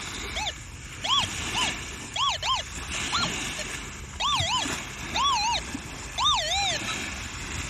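Metal detector target tone: short electronic chirps that rise and fall in pitch as the search coil sweeps back and forth over a buried target, single at first, then in quick pairs. A signal the detectorist suspects could be rubbish.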